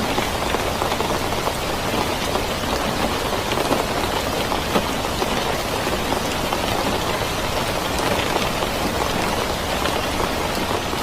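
Steady rain falling, an even hiss with fine scattered patter.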